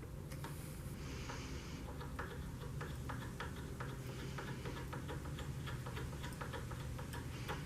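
Faint, irregular small clicks and taps of hands handling the parts during an epoxy glue-up, with two brief soft hisses early on over a low steady hum.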